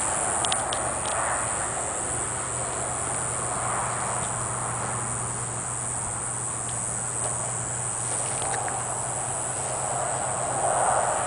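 Diceroprocta olympusa cicada singing a steady, high-pitched continuous buzz.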